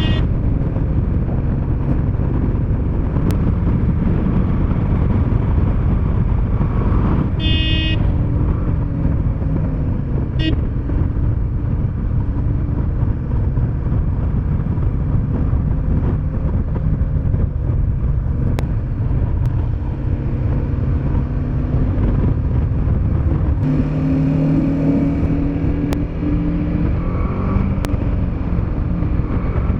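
Motorcycle riding on the road: steady engine running under heavy wind rumble on the microphone. About 7 to 8 seconds in, a short high tone with overtones sounds, and near the end the engine's steady note comes through more clearly for a couple of seconds.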